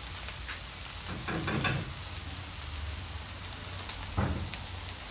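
Italian sausages and onions sizzling steadily on a hot flat-top griddle as they brown. A louder, rougher patch comes about a second and a half in, and a sharp knock just after four seconds.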